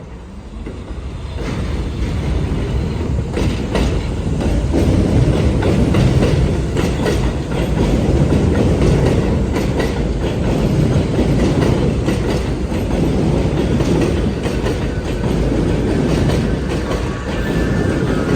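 New York City subway train running past, a steady loud rumble that builds over the first second and a half, with wheels clicking over rail joints. A brief thin wheel squeal comes near the end.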